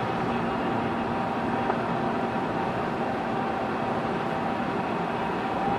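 Steady road and engine noise inside a moving car, even and unchanging.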